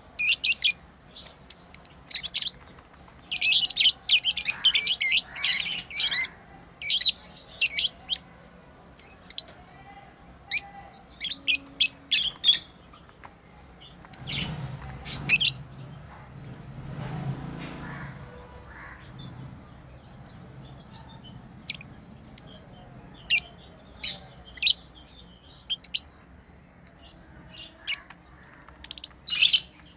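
Pet lovebirds giving many short, sharp, high chirps in quick clusters, busiest a few seconds in and sparser later. Partway through there is a few seconds of lower rustling and thumping with one loud knock.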